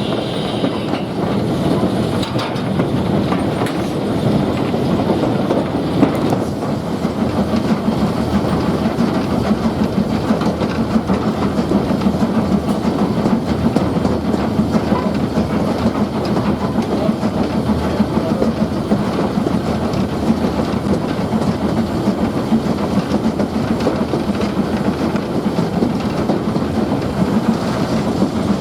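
A train running along the line: a steady rumble with the clickety-clack of wheels over rail joints.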